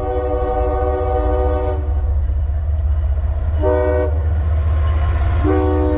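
Locomotive multi-chime air horn on an approaching eastbound train, sounding a long blast, a short blast and another long blast that starts near the end. This is the closing part of the standard warning sequence for a road crossing. A steady low rumble runs underneath.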